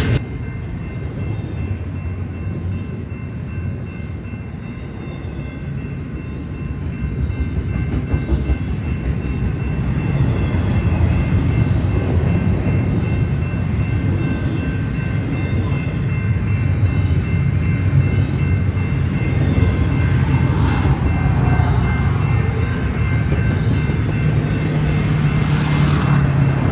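Freight train rolling past with a continuous low rumble that grows louder over the first several seconds and then holds steady.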